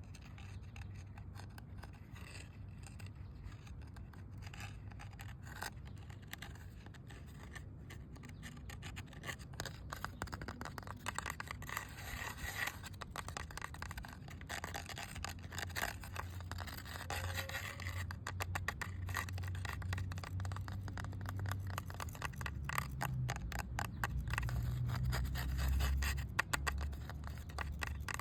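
Close-up scratching on a hard surface: a dense run of rapid scraping strokes that grows louder and busier after about ten seconds, over a low rumble.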